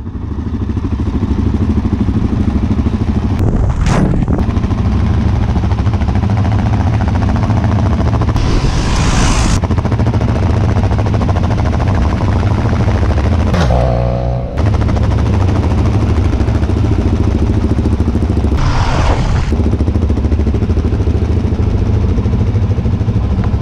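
Motorcycle engine running steadily while riding, with a dense low drone. There are three short whooshing swells and a brief dip in the engine sound about two-thirds of the way through.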